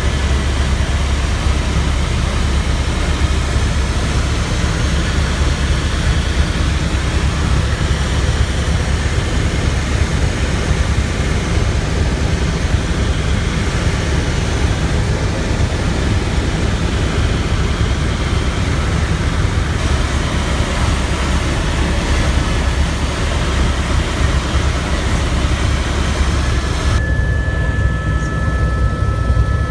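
Helicopter in flight, heard from aboard: a loud, steady rotor and engine noise with a deep, rapid beat from the blades. A thin steady whine comes in near the end.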